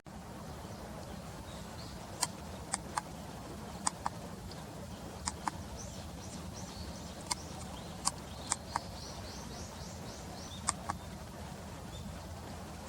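Faint high bird chirps, in short runs around the middle, with sharp clicks scattered through, over a steady low outdoor rumble.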